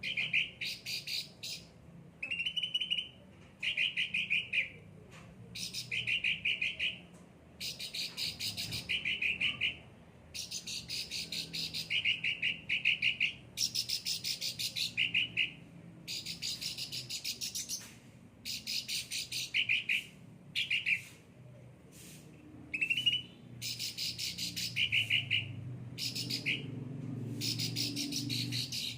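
Cucak ranting songbird singing vigorously: a long series of fast, rattling trilled phrases, each about a second long, repeated with short pauses.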